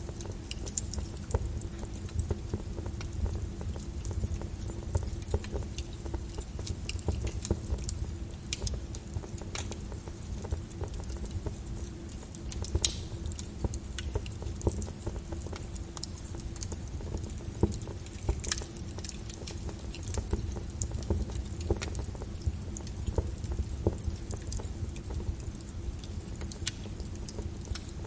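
Wood fire crackling in a fireplace: irregular snaps and pops over a low, steady rumble, with one sharper pop about 13 seconds in.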